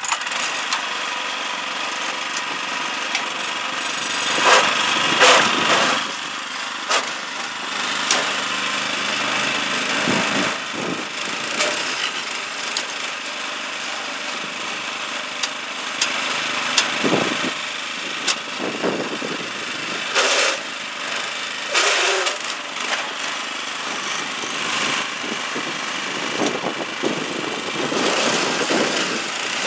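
Small single-cylinder Honda GX110 petrol engine running steadily, with several loud knocks and clatters along the way.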